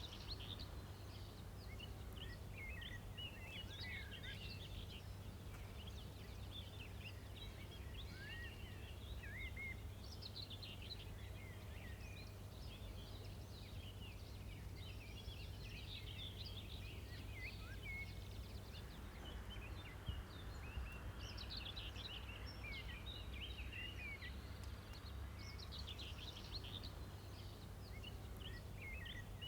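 Outdoor ambience: many small birds chirping and twittering in short rapid calls, over a faint steady low rumble.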